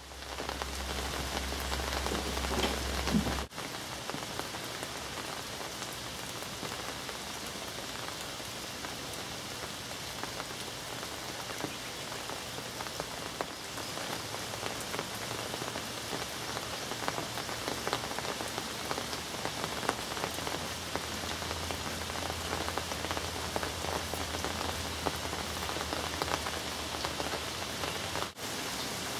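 Steady rain falling, with many separate drops ticking on surfaces close by. The sound cuts out for an instant twice, once near the start and once near the end.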